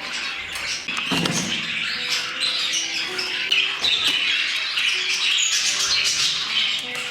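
Budgerigars chattering and chirping continuously over background music with held notes.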